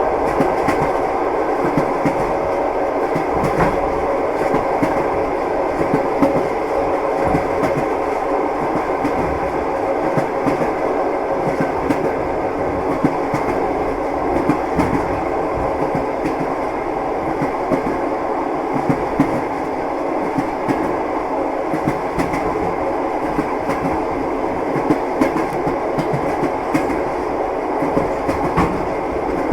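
Train wheels clattering on the rails: a steady running rumble with frequent small, irregular knocks and clicks, and a faint steady hum.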